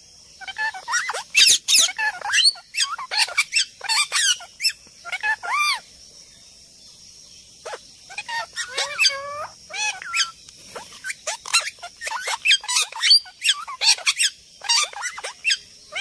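Birds calling in rapid, overlapping squeaky squawks and chirps, with a lull of nearly two seconds partway through; a steady high hiss runs underneath.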